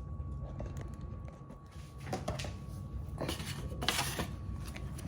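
Faint clicks and knocks of dishes being handled in a kitchen, over a low steady hum and a faint steady whine.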